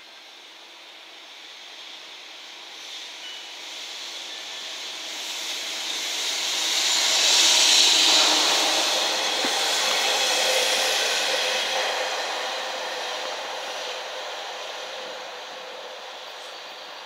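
A freight train pass-by: EF210 electric locomotive hauling two towed MT-4000 diesel railcars past on steel rails. The wheel and rail noise builds as the train approaches, is loudest about eight seconds in as the locomotive passes, then fades slowly as the railcars roll away.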